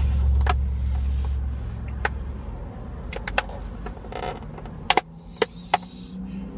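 Sharp clicks and brief rustling from handling a plastic takeout food container and utensils, over a low rumble that fades out about two and a half seconds in.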